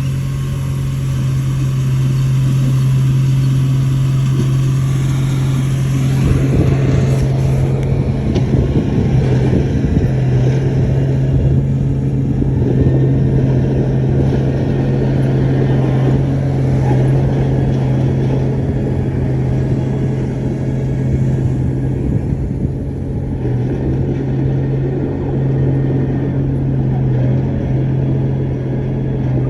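Diesel engine of a heavy earth-moving machine running steadily: a constant low drone, growing rougher and louder from about six seconds in.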